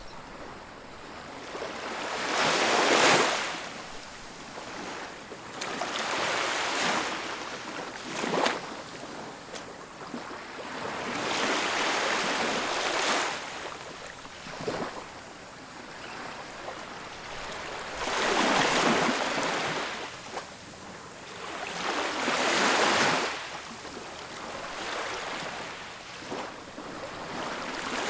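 Ocean waves breaking and washing up on a beach: a steady hiss of surf that swells and falls away, one wave every few seconds.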